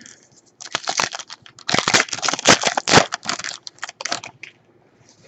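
Crinkling and crackling of a trading-card pack's foil wrapper being handled and torn open, in a dense run of rustles from about a second in until near the end.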